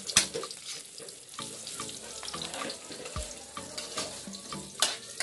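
Chopped garlic and onion sizzling in oil in a steel wok, stirred with a metal spatula that scrapes and clacks against the pan. Two louder clacks come just after the start and near the end.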